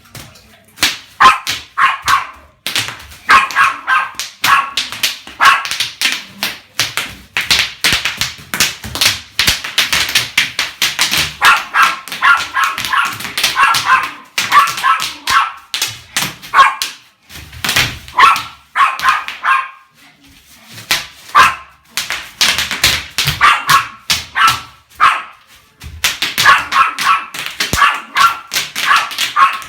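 Rapid runs of sharp popping clicks, starting and stopping in bursts, mixed with short high-pitched yelps.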